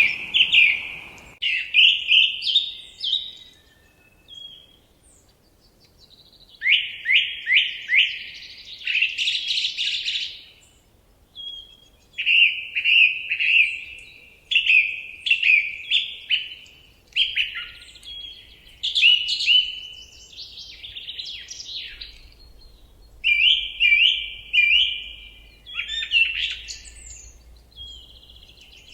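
A songbird singing: short phrases of three to five quick, sharply falling notes, repeated with brief pauses between phrases.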